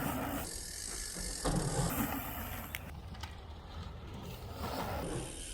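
Mountain bike riding along a snowy, muddy trail: steady tyre and riding noise with mechanical rattling and a few short clicks.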